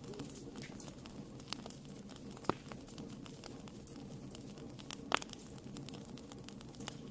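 Wood fire burning in a fireplace: a steady low rush with scattered small crackles, and two sharper pops, about two and a half seconds in and about five seconds in.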